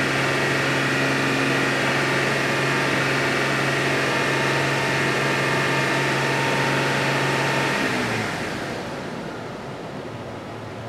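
2000 Audi A6's 2.8-litre V6 engine held steady at raised revs, close to 3000 rpm. About eight seconds in the engine sound drops in pitch and gets quieter as the revs come down.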